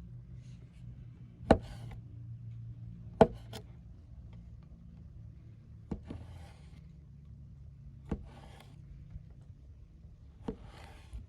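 Chopping on wood: a sharp knock every one to two and a half seconds, some in quick pairs, each followed by a short scraping rustle.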